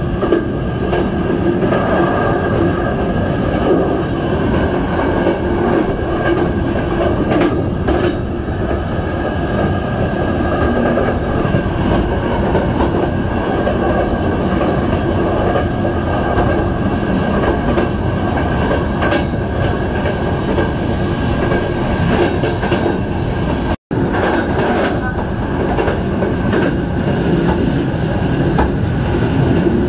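Passenger train running along the track: a steady rumble of wheels on rail with a few faint clicks from the rail joints. The sound cuts out for an instant about two-thirds of the way through.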